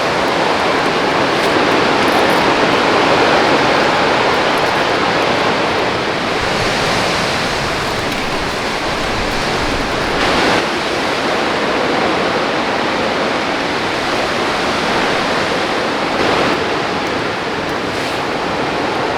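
Heavy rain and wind in a storm: a loud, steady wash of noise, swelling a little in the first few seconds, with a couple of brief louder spatters later on.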